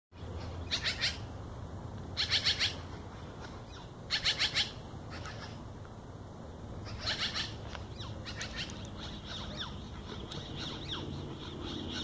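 Birds calling back and forth with harsh, buzzer-like calls, each a rapid run of four or five notes, repeated about every two seconds. From about nine seconds in, quick, thin downslurred chirps take over.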